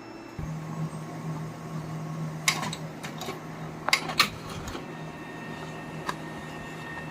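Canon inkjet printer starting a print job: a steady motor hum begins about half a second in, with several sharp clicks as the mechanism feeds the paper. It runs without the knocking it made before its cartridge was replaced.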